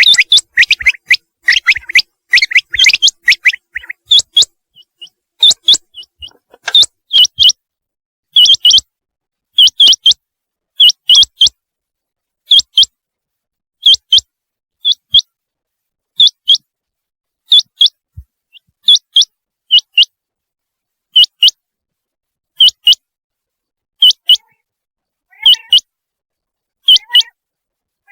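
Common quail calling: a few seconds of rapid chattering chirps, then short sharp notes in twos and threes, repeated about every second and a half.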